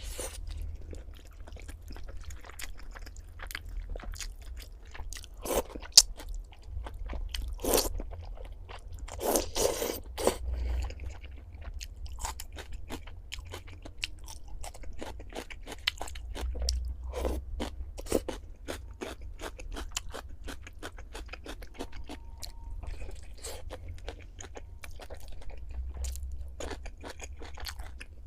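Close-miked chewing and biting of food, with wet clicks and crisp crunches coming irregularly, a few louder bites among them.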